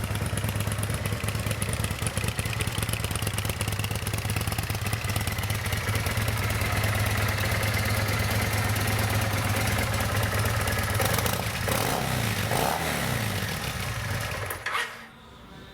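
2003 Kawasaki Vulcan 800's carbureted, liquid-cooled V-twin idling steadily through its chrome staggered pipes. The pitch wavers briefly near the end, then the engine cuts off.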